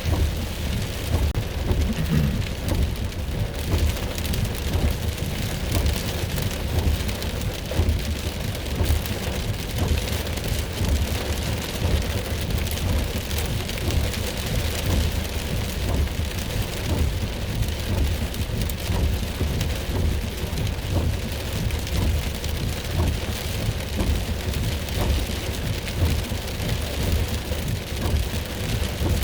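Heavy rain pouring steadily onto a car's roof and windshield, heard from inside the car, with a deep rumble beneath it.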